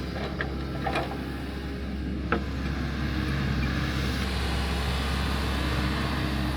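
Engine of earthmoving equipment running steadily during dirt grading, with a few sharp knocks in the first few seconds.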